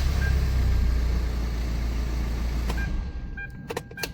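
Hyundai Tucson engine running with a heavy low rumble, now starting after a new battery in the remote key let the anti-theft chip recognise it; the rumble stops abruptly about three seconds in. A few sharp clicks and a short electronic beep follow near the end.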